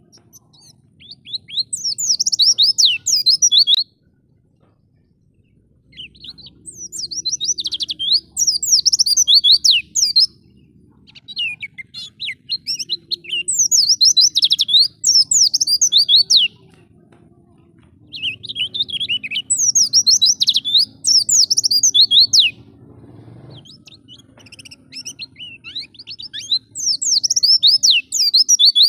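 White-eye (pleci) singing in fast twittering phrases of high, quickly sweeping notes, five bursts of a few seconds each with short pauses between.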